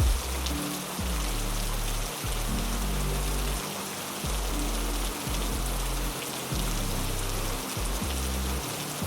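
Steady heavy rain hissing, under a slow run of low, held music notes that change about once a second, with a few soft knocks near the start.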